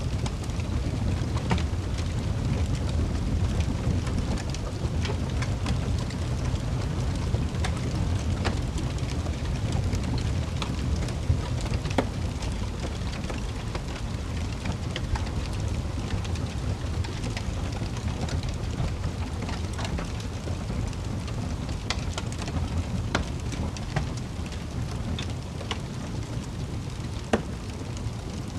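Wood fire burning in a fireplace: a steady low roar of flames with irregular crackles and pops, a few of them louder.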